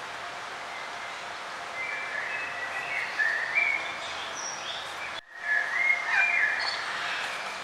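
Songbirds singing in short, varied phrases over a steady background hiss of outdoor ambience, with a brief sudden dropout of all sound about five seconds in.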